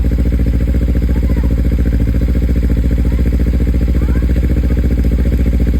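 Kawasaki Ninja 300's parallel-twin engine idling steadily with the radiator cap off, run to work the air bubbles out of the freshly filled cooling system.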